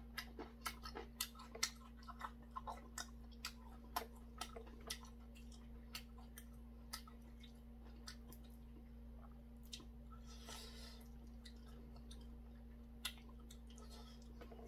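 Close-up chewing and lip smacking while eating boiled chicken and side dishes: many short wet clicks, frequent over the first five seconds and sparser after. A brief rustle comes about ten seconds in, over a steady low hum.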